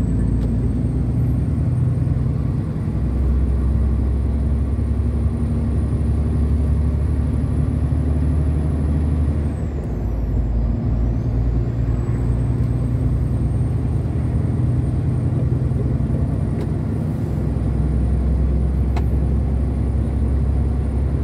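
Truck's diesel engine and road noise heard inside the cab while driving, with a thin high whistle over the steady engine note. About halfway through, the engine note and the whistle drop briefly, then build back up.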